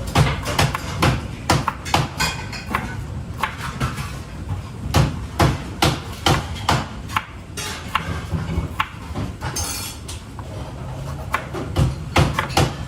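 A run of sharp, irregular strikes on a kitchen cutting board, coming several a second at times, over a low steady hum.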